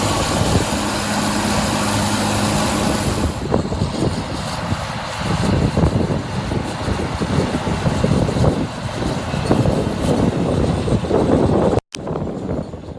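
Heavy snow-clearing machine's engine running hard, with a dense rumbling, scraping din over it. About twelve seconds in, the sound cuts off abruptly and a different, steadier engine takes over.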